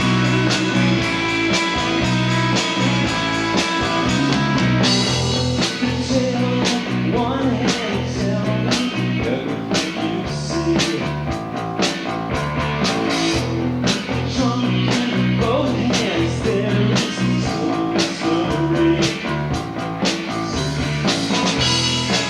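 Live rock band playing an instrumental passage: electric guitars over bass guitar and a drum kit, with a wavering guitar melody line through the middle.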